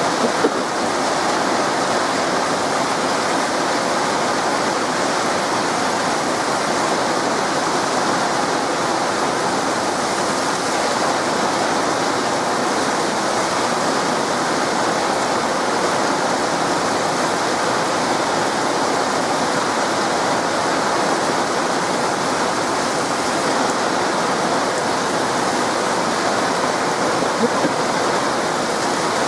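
Heavy rain pouring down steadily during a thunderstorm, as a constant loud rush with no thunder standing out.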